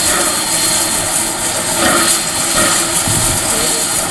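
Steam locomotive heard from inside its cab while running: a loud, steady roar with a strong high hiss, with no clear beat to it.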